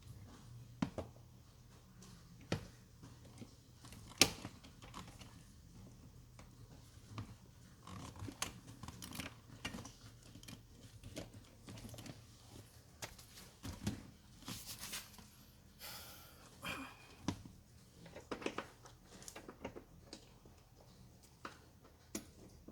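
Scattered clicks and knocks with a few short rustling scrapes, the sharpest knock about four seconds in: tools and parts being handled.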